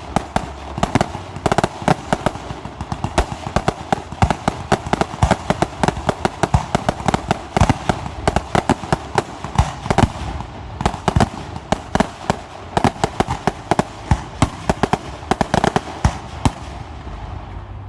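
Aerial fireworks show going off in a dense, continuous barrage of rapid bangs and crackling cracks, recorded on a cell phone, thinning out near the end.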